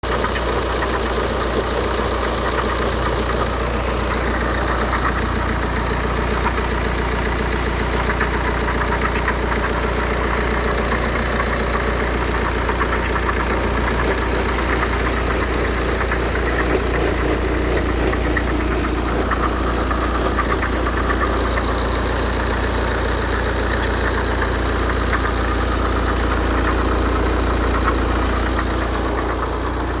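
BMW 118d's four-cylinder turbodiesel engine idling steadily with a diesel clatter.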